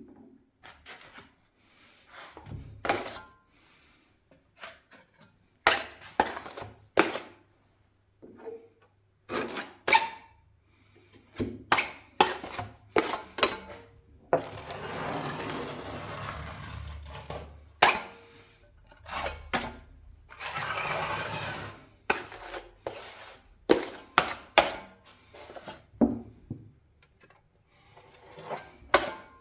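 Hand tools at work: a series of sharp taps and clatters, with two stretches of steady scraping or rubbing, one about fourteen seconds in and one about twenty seconds in.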